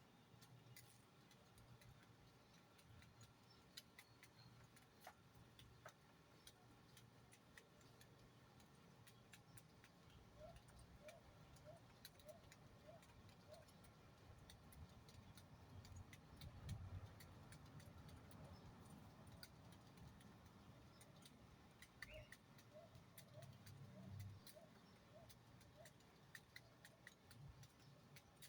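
Faint bird calls over near silence: a run of short rising notes, about two a second, heard twice, with scattered faint ticks.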